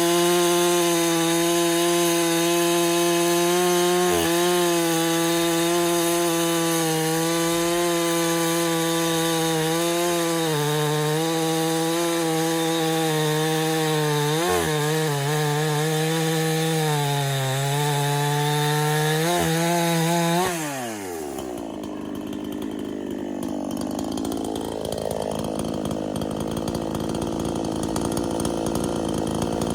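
Big-bore Husqvarna-clone two-stroke chainsaw running at high revs, its pitch dipping briefly under load several times. About two-thirds of the way in it winds down with a steeply falling pitch, and a rougher, noisier sound follows, growing louder toward the end.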